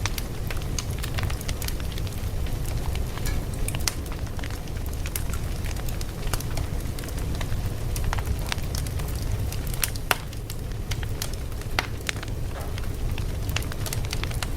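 Wood fire burning with a low steady rumble and frequent irregular crackles and pops.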